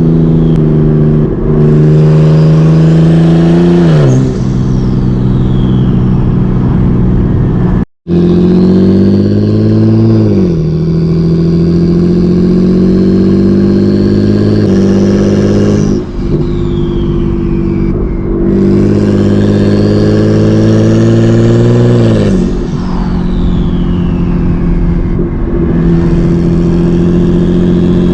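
Single-turbo BMW 335i N54 straight-six engine with a hood-exit downpipe, loud, pulling through the gears. The pitch climbs steadily, then drops sharply at each shift about four seconds in, about ten seconds in and near the end. A fainter high turbo whistle slides in pitch around the shifts, and the sound cuts out for an instant about eight seconds in.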